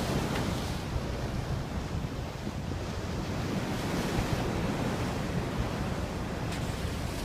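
Wind buffeting the microphone over the steady rush of open sea water, with a brief hiss near the end.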